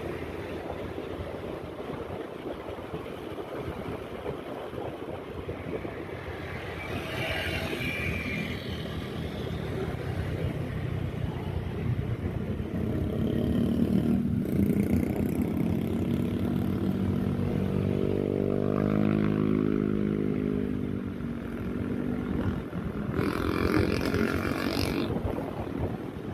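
Motorcycle engine running on the move, with wind rushing over the microphone. About halfway through, the engine note climbs as the bike accelerates, then eases off.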